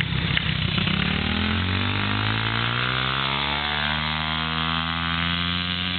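Small four-stroke single-cylinder Yamaha TT-R dirt bike engine passing close by, its note sliding down in pitch over the first few seconds and then holding steady.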